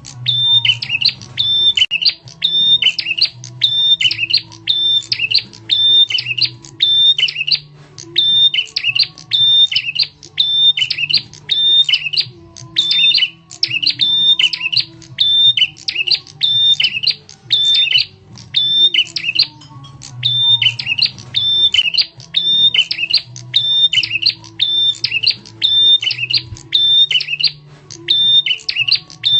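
Prenjak tamu (a prinia) calling: loud, sharp phrases repeated several times a second in long runs, broken by brief pauses every few seconds, played as a lure call.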